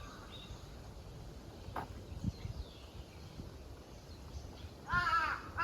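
A crow cawing loudly near the end, hoarse calls that follow one another, over quiet outdoor background with a few soft footstep thumps.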